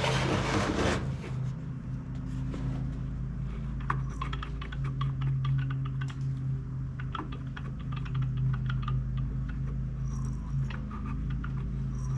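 Small irregular clicks and ticks from the Echo PB-265L blower's small two-stroke engine as it is worked over slowly by hand, over a steady low hum.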